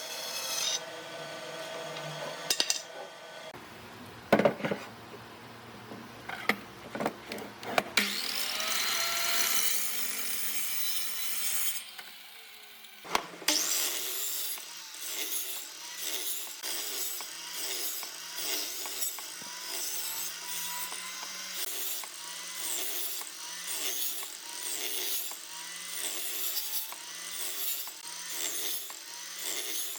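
Hand woodworking: a tool cutting and rubbing on wood, with several sharp knocks in the first eight seconds, then even back-and-forth strokes about once a second.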